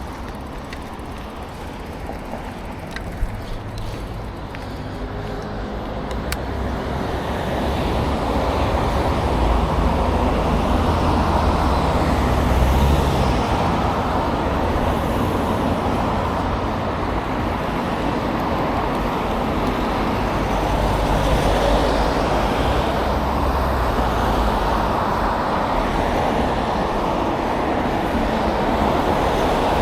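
Steady road traffic noise with a low rumble, growing louder after about seven seconds and then holding steady. A single sharp click comes about three seconds in.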